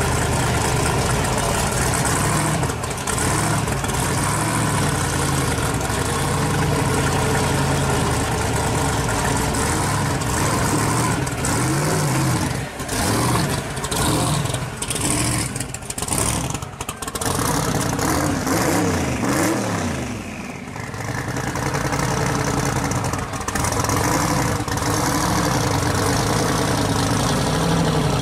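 Engine of a twin-turbo 1955 Chevy pro street drag car running loud and steady at idle. In the middle stretch the revs rise and fall a few times before it settles back to idle.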